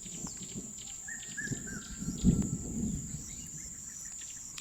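Steady high-pitched insect drone with a bird calling a quick run of three short whistled notes a little after a second in. A low thump comes about two seconds in.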